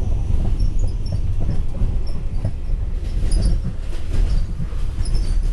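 Passenger train running along the line, heard from inside a carriage: a steady low rumble with light clacks of the wheels and a few short high squeaks.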